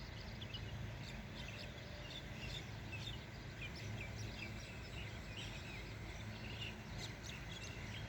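Small birds chirping, many short calls in quick, irregular succession, over a faint low steady hum.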